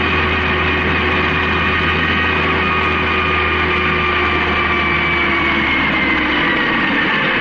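Honda CB750K's inline-four engine running at a steady cruise with wind noise, its pitch slowly falling over the last couple of seconds as the bike eases off.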